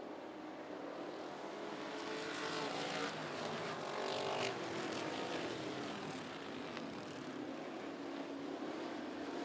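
Classic-division dirt track race cars racing around the oval, several engines running at once with their pitch rising and falling.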